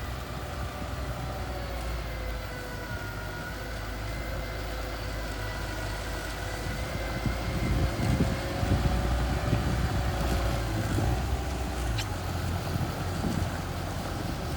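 Small bulldozer's engine running steadily with a low rumble and a faint whine that drifts slightly in pitch. A single sharp click sounds near the end.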